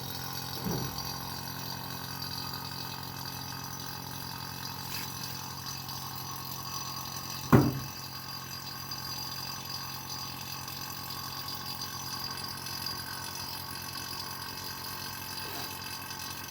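Refrigerator compressor running steadily during a refrigerant gas recharge, a constant hum with fixed tones. There is one sharp knock about seven and a half seconds in.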